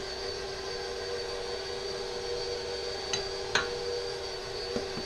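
Electric mixer running steadily on low, a constant motor hum, with two short clicks a little past three seconds in and a faint one near the end.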